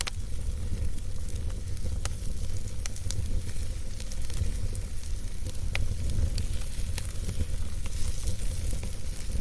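Campfire burning with a crackling hiss and a few sharp pops scattered through, over a steady low rumble.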